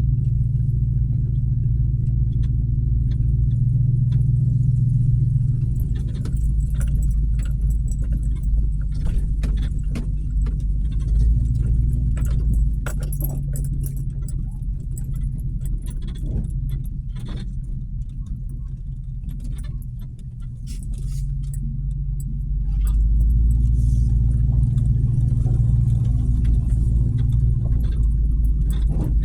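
Pickup truck engine running while driving, heard from inside the cab, with many rattling clicks throughout. The engine eases off about twenty seconds in and pulls harder again a few seconds later.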